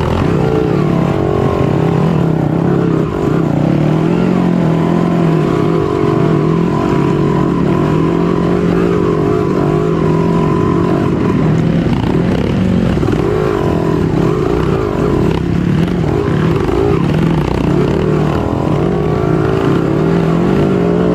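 Off-road trail motorcycle engine running under load as it is ridden, its pitch rising and falling with the throttle.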